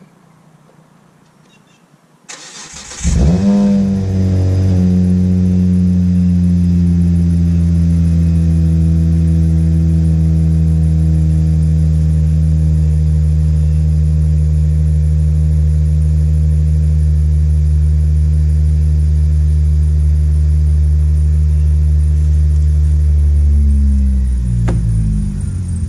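2004 Hyundai Tiburon GT's 2.7-litre V6 is started: the starter cranks about two seconds in, the engine catches with a short rev, then idles steadily with a faint high squeak, which the owner puts down to the AC compressor clutch pulley. The idle dips briefly near the end.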